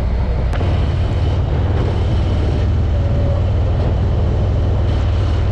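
Harley-Davidson motorcycle's V-twin engine running steadily as the bike pulls away and rides on. The rumble is low and even, with wind and road noise over it.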